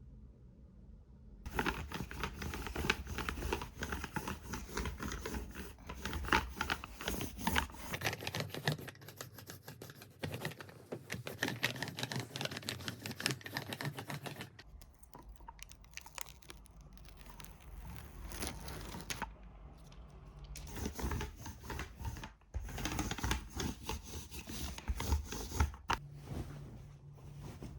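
Dense, irregular clicking and rustling of small objects being handled. It starts about a second and a half in, thins out around the middle and picks up again later.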